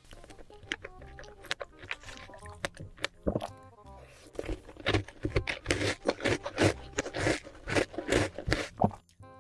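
Close-miked crunching and chewing of chocolate in a quick series of crisp bites, denser and louder from about halfway in, over background music.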